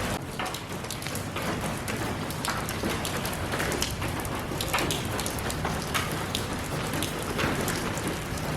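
Steady rain falling, an even hiss with many individual drops striking a surface.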